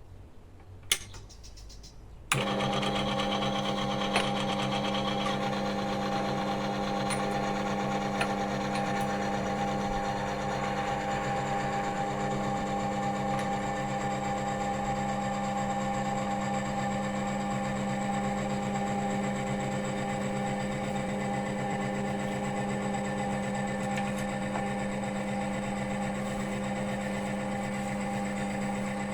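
Two sharp clicks, then the oil wear-test machine switches on about two seconds in and its motor-driven test roller runs steadily with an even hum, in engine oil with 6% Metal Guard added. A faint high whine joins partway through.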